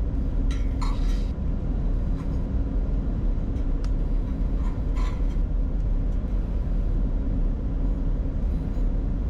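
Steady low rumble inside the cockpit of a Bombardier Challenger 605 on final approach, with landing gear down and flaps at 45: airflow and engine noise.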